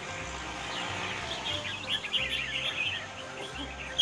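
Many caged songbirds chirping and singing at once in a dense chorus of short, high trills, the birds competing in a singing contest judged on how many syllables each sings.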